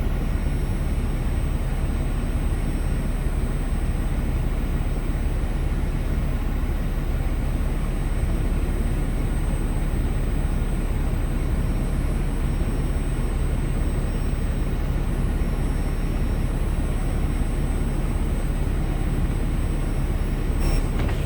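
Steady, unchanging engine rumble with a low hum, typical of a semi truck's diesel engine running at the truck wash, with a brief click near the end.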